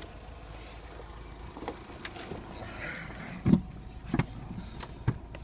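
2003 Dodge Stratus 2.4-litre DOHC four-cylinder engine idling steadily, with a few scattered sharp clicks over the low hum.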